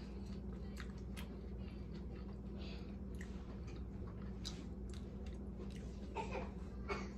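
Close-up mouth sounds of a person chewing a taco, with scattered wet clicks and crunches, louder for a moment near the end.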